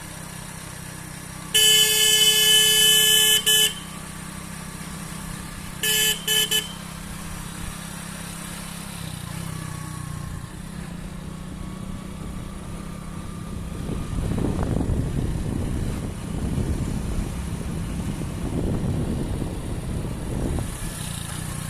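Small single-cylinder motorcycle engine running steadily. A horn sounds for about two seconds near the start, then gives two short toots a few seconds later. Past the middle, the engine sound grows louder and rougher.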